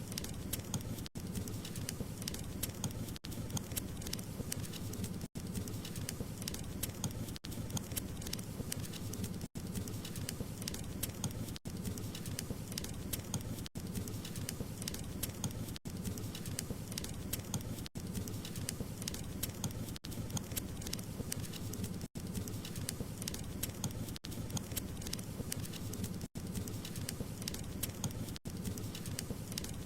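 Wood fire crackling and popping steadily over a low rumble, with very brief dropouts about every two seconds.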